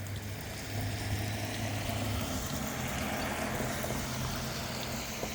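A vehicle engine running steadily under a continuous hiss of falling rain; the hiss swells a little in the middle.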